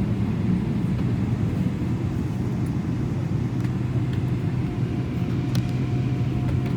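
Jet airliner engines running, heard from inside the cabin as a steady low rumble. A faint high whine comes in about four seconds in, with a light click shortly after.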